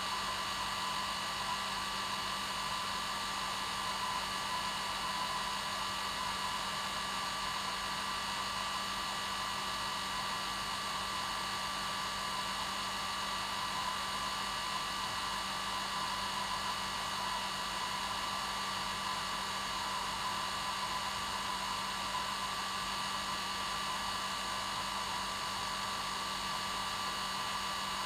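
Hair dryer running steadily, a constant rush of air with a low hum and a higher motor whine.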